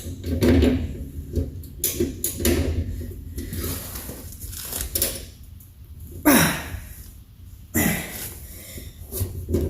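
Irregular knocks, clinks and rustles of hand tools and parts being handled, with a brief sliding sound that falls in pitch about six seconds in and a sharp knock near eight seconds.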